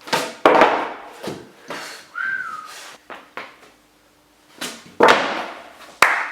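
Truckless skateboard decks scraping, flicking and slapping on carpet during flatground tricks: a run of quick whooshing scuffs and hits, with a short squeak about two seconds in and a sharp slap near the end.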